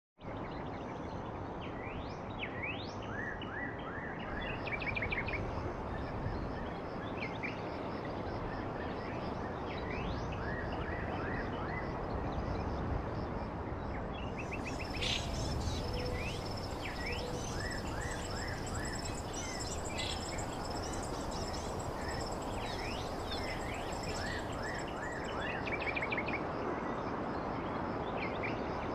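Gouldian finches calling: many short, high chirps in quick runs, over a steady background hiss. About halfway through, a thin, steady high whine joins in.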